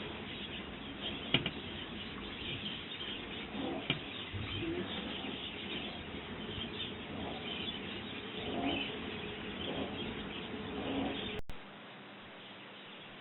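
Small garden birds chirping again and again, with two or three sharp clicks in the first few seconds. About eleven and a half seconds in, the sound drops abruptly to a quieter, steady background.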